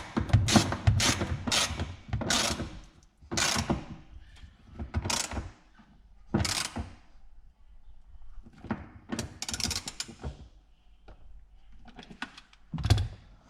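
A hand ratchet wrench clicking in quick repeated strokes for about the first two seconds, then a series of separate short clatters and scrapes of tools and parts being handled, with a louder knock near the end.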